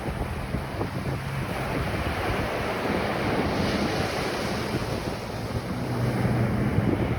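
Ocean waves breaking and washing on a beach, swelling twice, under a low rumble of wind on the microphone.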